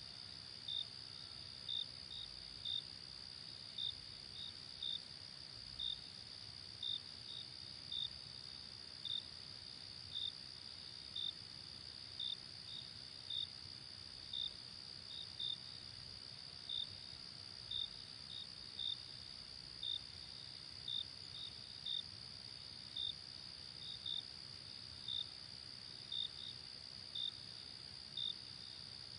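Crickets at night: a steady high trill with short chirps repeating about one and a half times a second over it.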